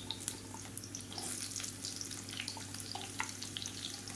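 Chopped red onion and garlic cloves sizzling in hot oil in a nonstick pan, with many small pops and crackles, while a wooden spatula stirs them.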